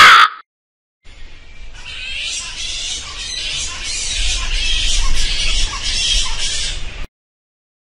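A crow's caw at the very start, then after a second's gap a group of fruit bats squawking and chattering at a feeding station: a dense, high-pitched clamour that grows louder and stops abruptly about seven seconds in.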